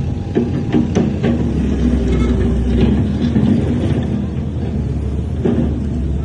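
Heavy earthmoving machine's diesel engine running steadily, with a few short clanks in the first second or so.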